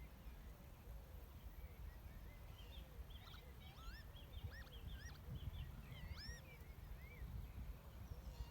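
Faint outdoor birdsong: a short low note repeated steadily about twice a second, the unusual mechanical-sounding call, with a quick jumble of high whistled notes from another bird from about three to seven seconds in. A low rumble runs underneath.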